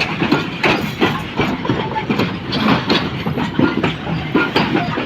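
Passenger train running past at speed, its wheels clattering fast and unevenly over the rail joints.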